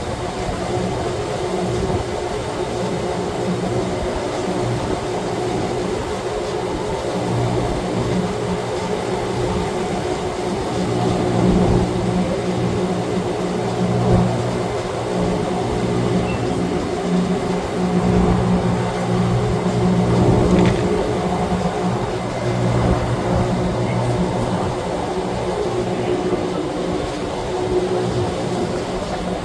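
Wengernalpbahn rack-railway train running, heard as a steady rumble with an electric motor hum that swells for several seconds in the middle.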